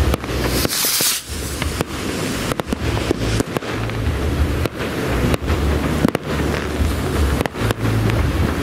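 Fireworks display: a rapid, irregular series of bangs and crackles from bursting shells, with a brief rushing hiss about a second in. A low rumble of wind buffets the microphone throughout.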